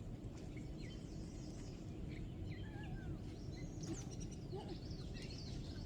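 Small birds chirping, many short quick calls overlapping, over a steady low background rumble.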